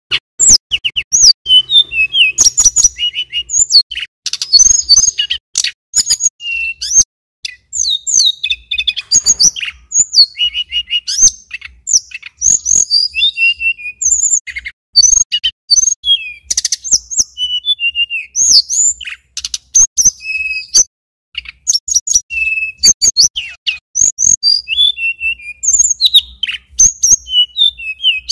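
Male tledekan gunung (sulingan gunung) singing in a rapid, continuous run of high chirps, trills and short whistled notes, with only brief pauses.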